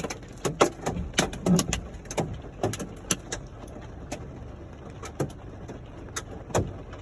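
Hailstones striking a hard surface, an irregular patter of sharp individual hits that thins out after a few seconds.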